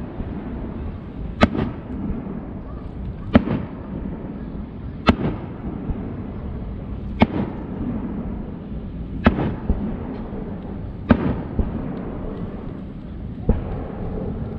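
Aerial firework shells bursting, seven sharp bangs about every two seconds, over a steady low rumble.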